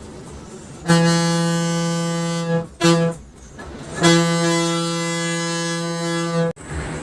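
A bus horn blown three times, a long blast, a short one and another long one, on one steady pitch that cuts off sharply each time.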